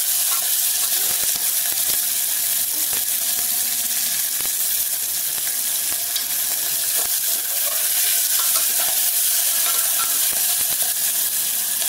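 Diced potatoes and green peas frying in hot oil in an open pressure cooker, sizzling steadily, with a steel ladle stirring and scraping against the pot in small clicks.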